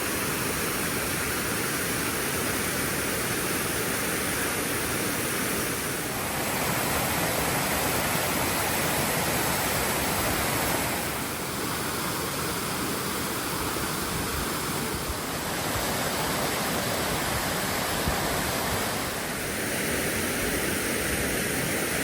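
Waterfall close up: a loud, steady rush of falling water, its tone shifting a few times.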